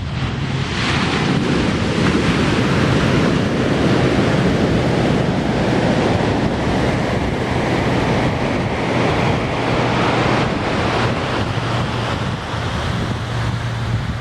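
Ocean surf breaking and washing up the beach, a wave surging in about a second in and its wash slowly easing off, with wind rumbling on the microphone.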